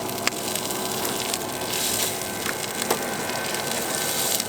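Chorizo frying in a small pan on a camp stove: a steady sizzle with scattered sharp pops.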